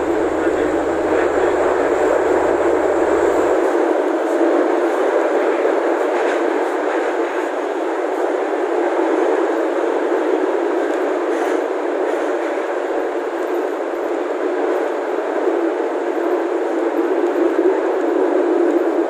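KRDI diesel multiple unit running along the track, heard from inside the driver's cab: a steady, loud running noise of engine and wheels on rail.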